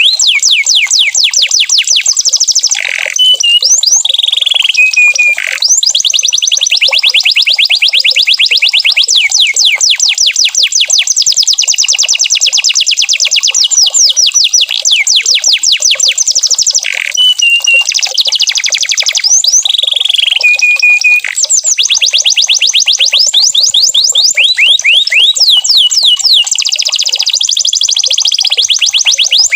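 Domestic canary singing a long unbroken song of rapid trills, each a fast run of repeated sweeping whistles, broken by short held whistled notes about three seconds in and again around seventeen to twenty seconds in.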